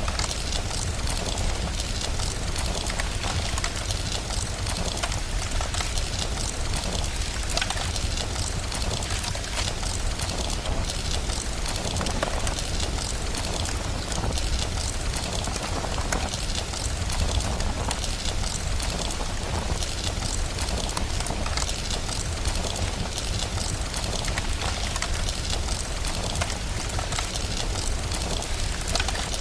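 Steady rain hiss mixed with the irregular snapping crackle of a wood fire, over a constant low rumble.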